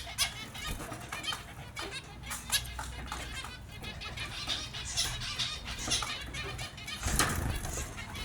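Small finches chirping in quick, irregular calls, mixed with short wing flutters, and a louder flurry of fluttering about seven seconds in.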